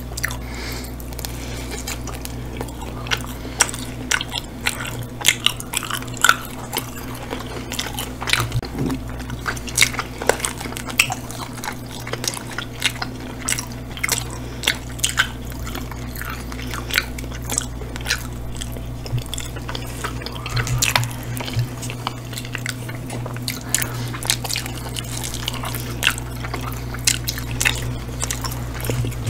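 Close-miked chewing and biting of two people eating pizza and hot wings, with many short wet mouth clicks and smacks, over a steady low hum.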